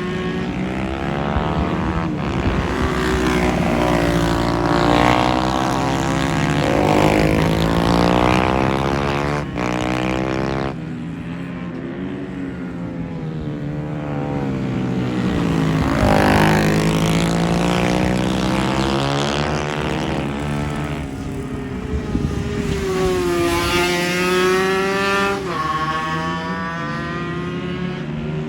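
Several small racing motorbikes lapping a circuit, their engines revving up and down and passing one after another, the pitch rising and falling as each goes by.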